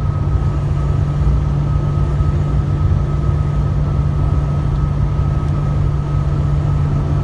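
Steady engine and road drone inside a truck's cab while driving, with a faint steady high whine over it.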